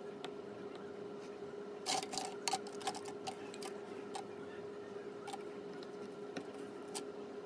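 Small repair tools clicking and tapping against an iPhone 14's internal parts during disassembly: a quick run of sharp clicks about two seconds in, then scattered single ticks, over a steady faint hum.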